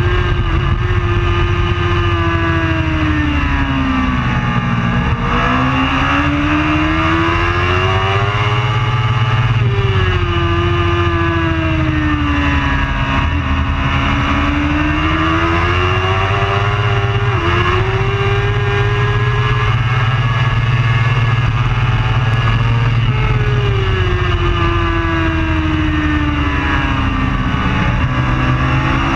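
Racing superbike engine at high revs, its pitch falling and rising again several times as it slows and accelerates around the circuit.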